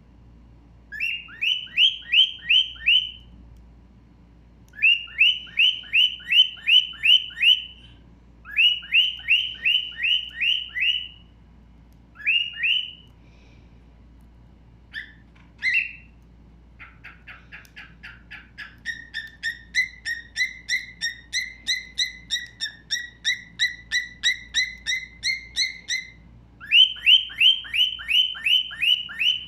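Stone-curlew (karawan) calling. Loud rising whistled notes come in bouts of five to eight, about three a second, followed by a longer run of about twenty two-pitched notes near the end, then another bout.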